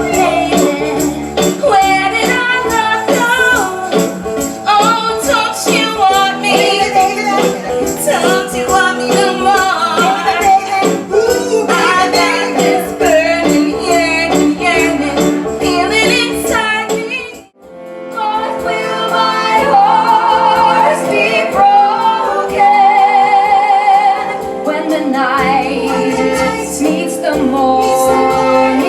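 Women singing 1960s pop songs from a stage musical, backed by a band with tambourine. About two-thirds of the way through, the song cuts off abruptly and another song begins.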